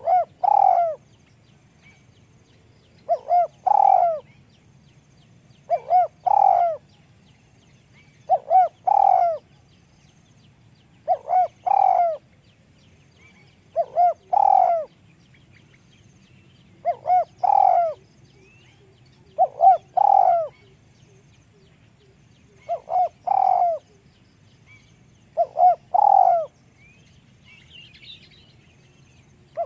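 Spotted dove cooing: a phrase of two quick short notes and one longer coo, repeated about every two and a half to three seconds, about ten times.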